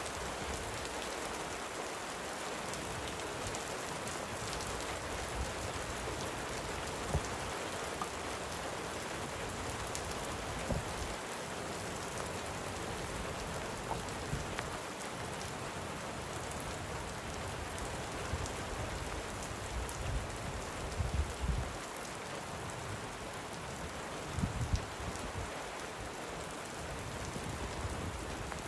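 Steady light rain falling, an even hiss with faint scattered drop ticks. A few short low thuds come about two-thirds of the way in and again near the end.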